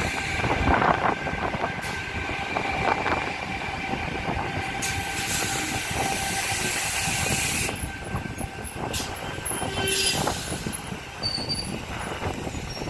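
Strong wind buffeting the microphone over the steady hum of a stationary electric suburban train, set T26, standing at the platform. Now and then a gust brings a brighter hiss.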